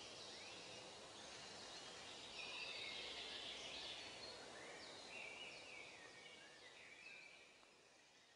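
Faint outdoor birdsong: many short chirps and whistled notes from several birds over a soft background hiss, fading out toward the end.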